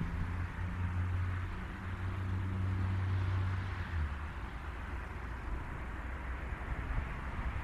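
A car engine running with a steady low hum that drops lower about four seconds in, over a steady hiss.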